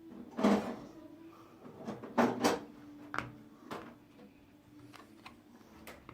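A series of short knocks and clacks of a phone and small tools being handled on a work surface while the phone is being pried open, the loudest about half a second in and a pair around two seconds in.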